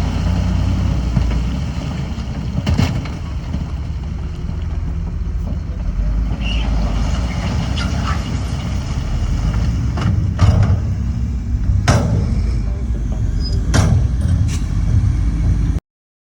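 Diesel earthmoving machinery running with a steady low rumble, broken by several sharp metal clanks, the strongest about ten and twelve seconds in. The sound cuts off suddenly near the end.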